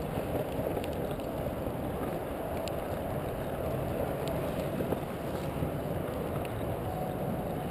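Steady rolling rumble of board wheels on asphalt while riding along a paved trail, with wind noise on the microphone and a few faint clicks.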